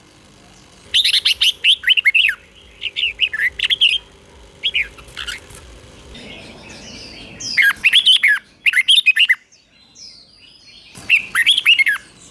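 Red-whiskered bulbul singing: several bursts of quick, bubbling whistled phrases with short pauses between them.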